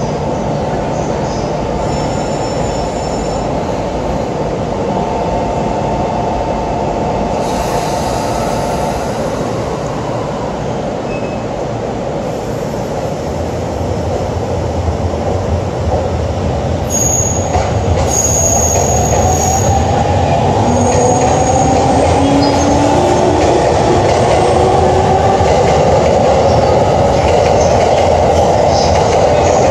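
Electric commuter train running at a station platform, with brief high squeals from the wheels. In the second half its motor whine rises in pitch and grows louder as it accelerates.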